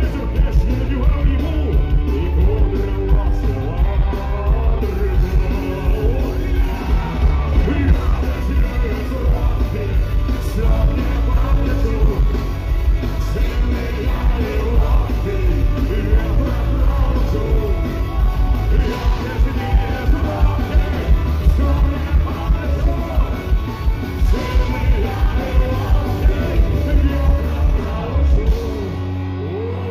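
Live punk-rock band playing loudly with drums, heavy bass and shouted, wordless vocals, with a steady beat; the bass drops away near the end as the song finishes.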